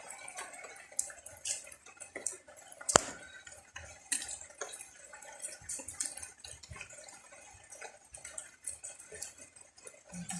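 Water dripping and tapping irregularly in the rain, with one sharp tap about three seconds in.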